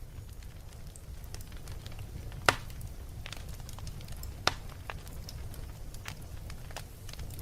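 Wood fire burning in a fireplace: a steady low rumble of flames with scattered crackles and two sharp pops, about two and a half and four and a half seconds in.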